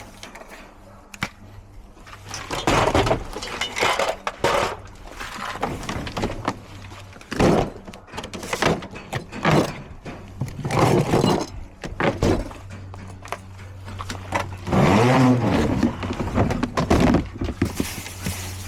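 Repeated sharp knocks and cracking clatters of hard plastic parts being handled and pried, typical of unclipping a wall-mounted air conditioner's casing, over a steady low hum.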